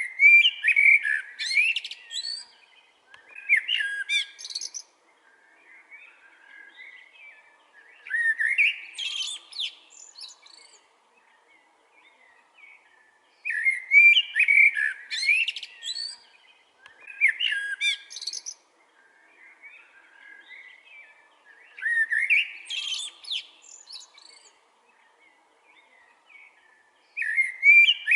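Eurasian blackbird singing: a run of separate phrases a few seconds apart, each a melodious lower warble that ends in a high, thin twitter.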